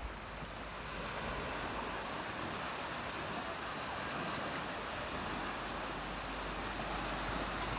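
Steady beach ambience of gentle waves washing on the shore, mixed with wind on the microphone.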